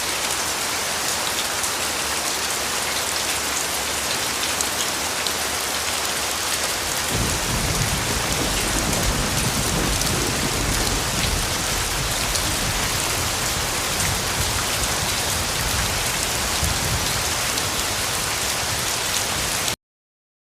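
Steady heavy rain. About a third of the way in, a deep rumble of thunder joins it and rolls on under the rain. Near the end everything cuts off abruptly into silence.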